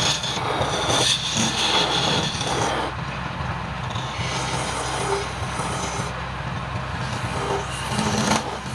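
Wood lathe running with a steady hum, and a rough noise over it that is louder for the first three seconds and then eases.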